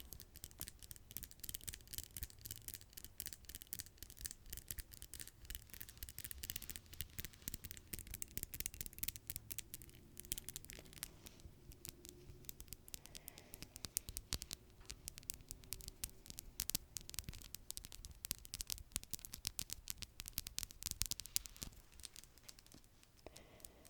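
Long fingernails tapping and scratching close to the microphone: a dense run of quick, light clicks and scratches.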